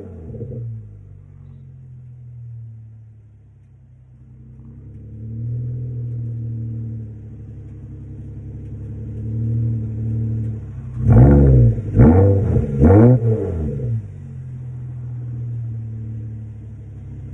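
2018 Subaru Legacy 3.6R's flat-six, with its muffler deleted and a Takeda intake fitted, falling back from a rev to idle, idling with a couple of slight swells, then blipped three quick times about eleven seconds in before settling back to idle.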